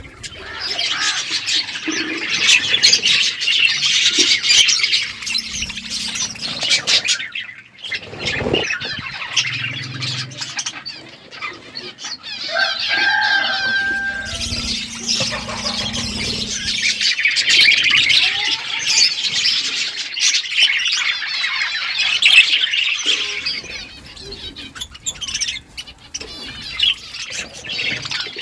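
A group of budgerigars chattering and warbling in fast, busy high-pitched twitters. The chatter comes in two long stretches with a quieter lull between them, where one clear whistled note stands out.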